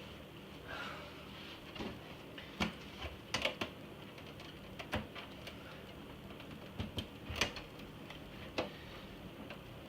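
Irregular sharp clicks and knocks of hard plastic parts of an iMac G3 being handled and pried apart, a few close together in small clusters, over a steady low hum.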